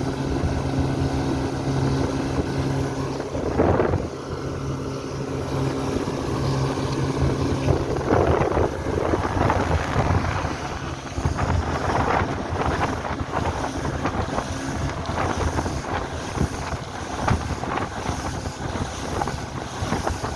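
A small boat's motor running steadily on the water, its low hum strongest in the first half, with repeated gusts of wind buffeting the microphone.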